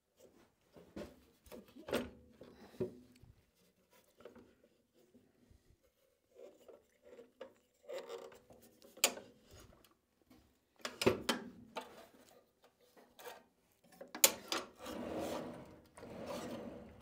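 Irregular clicks, knocks and scraping as the rusty metal parts of an old Craftsman radial arm saw are handled and worked, with a longer rubbing scrape near the end.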